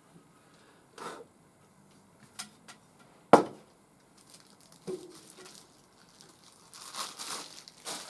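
Packing material being handled and pulled away during unboxing: a few scattered knocks, the loudest a sharp knock about three seconds in, then crinkling and tearing near the end.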